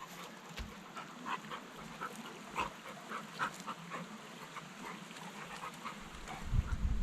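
A dog making short, soft repeated sounds every half second or so, with a low rumble near the end.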